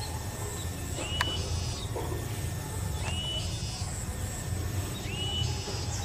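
A small bird giving a short whistled call that rises and then holds, repeated about every two seconds, over a low steady rumble, with a sharp click about a second in.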